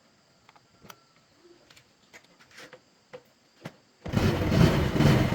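Faint scattered clicks and taps, then about four seconds in a loud, steady machine noise starts suddenly.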